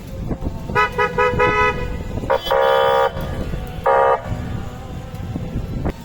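Vehicle horns honking as a convoy arrives: three quick toots, then two longer blasts.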